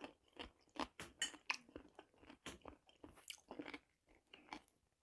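Faint, close-up chewing of a pickled cucumber, with irregular soft crunches as it is bitten through.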